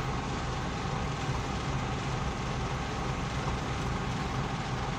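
Front-end loader's diesel engine idling steadily, a low even drone.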